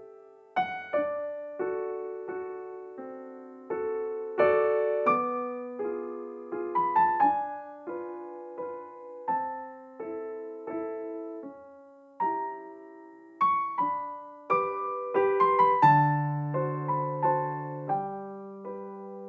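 Gentle solo piano background music, single notes and chords struck one after another and left to ring out.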